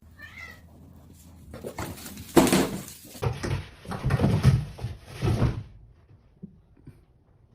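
A dog vocalizing in a few short calls over about four seconds, then quiet.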